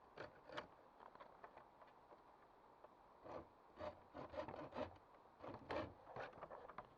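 Faint, irregular rustling and scraping with light knocks in short clusters, heaviest in the second half: something such as wood or gear being handled by hand.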